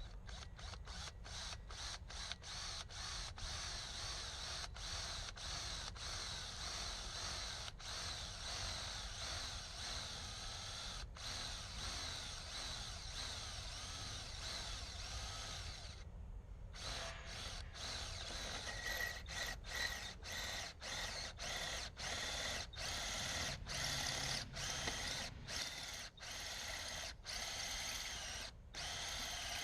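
Power drill running in many short stretches, stopping briefly again and again, with a longer pause about sixteen seconds in.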